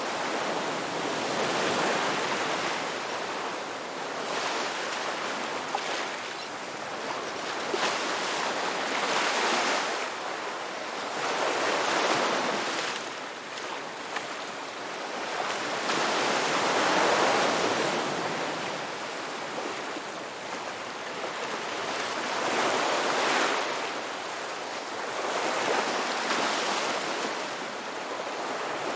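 Ocean waves breaking and washing onto a shore: a continuous hiss of surf that swells and ebbs every few seconds.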